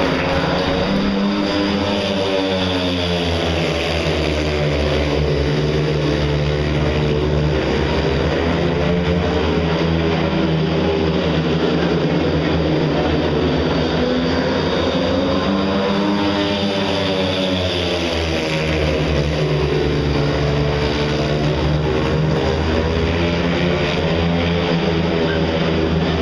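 Speedway motorcycles racing round the dirt oval, their 500 cc single-cylinder methanol engines running loud and continuous. The engine note swells and sweeps up and down as the bikes go through the bends and along the straights, about twice.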